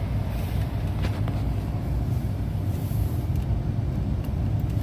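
Cutlass Convertible's engine idling with a steady low rumble, with a few faint clicks over it.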